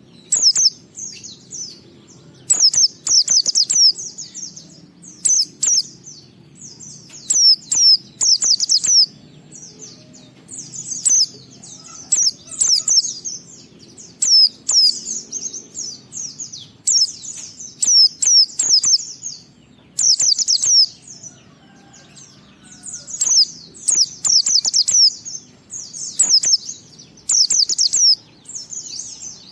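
White-eye (pleci) singing: quick bursts of high, rapid twittering notes, each about a second long, repeated every second or two with short pauses between them.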